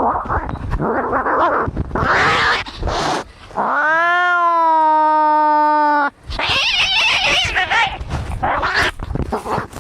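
Cats fighting: harsh, noisy screeches, with one long, steady, drawn-out yowl starting about four seconds in and lasting about two seconds, followed by more screeching.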